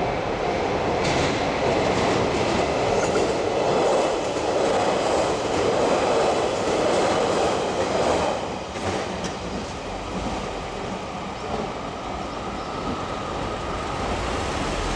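A train passing over a level crossing, the wheels rumbling on the rails with a few clicks, loud for about eight seconds and then fading off as it moves away.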